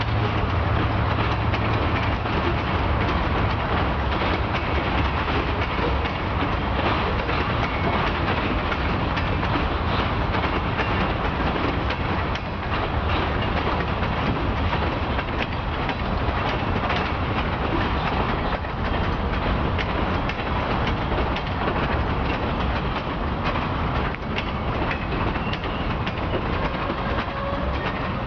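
Freight train cars rolling past, steel wheels clicking and clattering over the rail joints. A low diesel locomotive drone is strongest at the start and then weakens.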